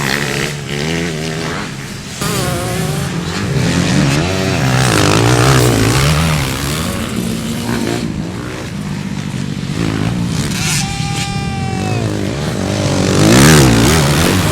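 Several motocross motorcycles racing, their engines revving up and down over one another. One bike holds a high note that falls slightly around the middle, and another passes close and loud near the end.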